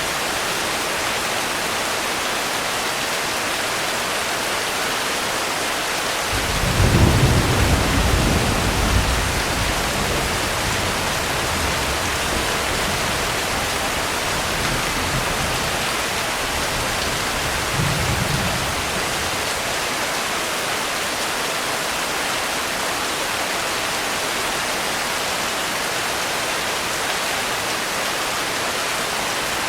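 Steady rain hiss with a rolling rumble of thunder that swells about six seconds in and fades over several seconds, then a second, shorter rumble a little past halfway.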